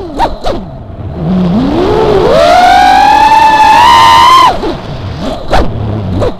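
QAV210 racing quadcopter's brushless motors whining as the throttle changes: a few quick pitch swings, then a steep climb to a high, held whine that creeps upward and cuts off abruptly about four and a half seconds in, followed by short throttle blips near the end.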